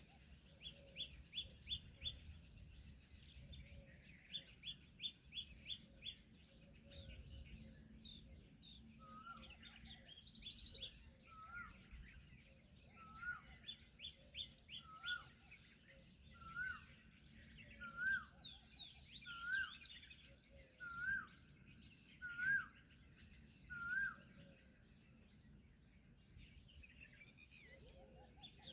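Several small birds calling: quick runs of high chirps, and from about a third of the way in a short rising-and-falling call repeated about every second and a half, about a dozen times.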